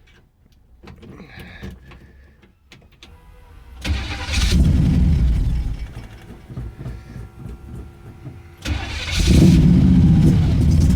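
Pontiac Strato Chief engine being started through its new homemade exhaust: two loud bursts about four seconds apart, each firing for two to three seconds and then falling away. It won't keep running because it is cold and not on choke.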